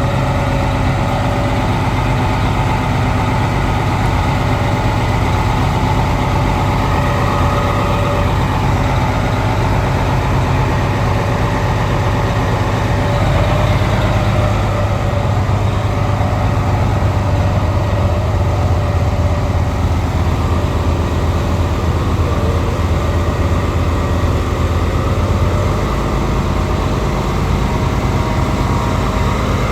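Heavy truck engine running steadily, a deep low rumble with a steady higher tone over it.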